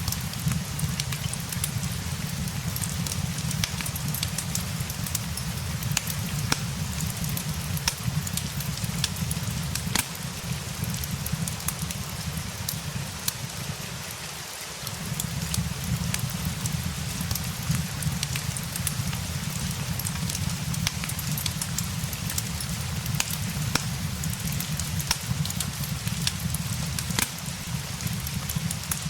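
Rain and a crackling fireplace together: a steady hiss of rain over a low steady rumble, with frequent sharp pops and snaps from the fire. The low rumble dips briefly about halfway through.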